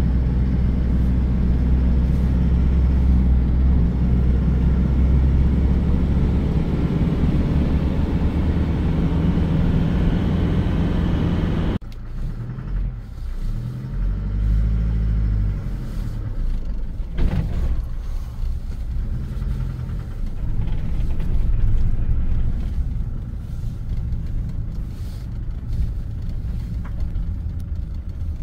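An engine running with a steady low rumble. About twelve seconds in it cuts to a quieter engine sound that rises and falls in pitch, with a single knock partway through.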